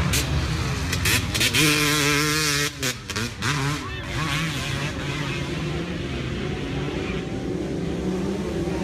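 Several dirt bike engines racing, their pitch rising and falling as riders work the throttle and pass by. The engines are loudest between about 1.5 and 2.5 seconds in, then settle to a steadier drone.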